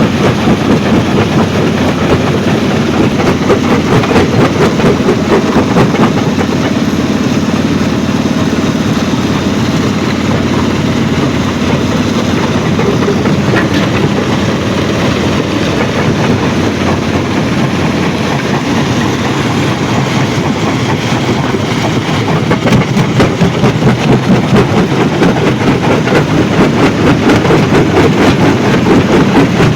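Stone crushing plant running: a loud, steady mechanical din with constant rattling and clatter of crushed stone. It grows louder and rougher about two-thirds of the way through.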